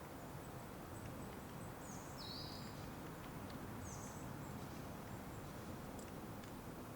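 Songbirds giving a few short, high calls, one around two seconds in and another around four seconds in, over a steady low outdoor background noise.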